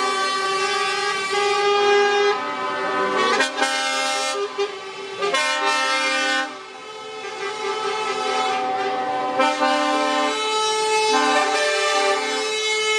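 Truck air horns blaring, several at once in overlapping pitches as a convoy of lorries passes, with short breaks and changes in the chord.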